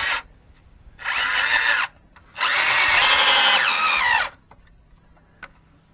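Power drill working into soft wood in two bursts: a short one about a second in, then a longer run of about two seconds whose pitch drops just before it stops.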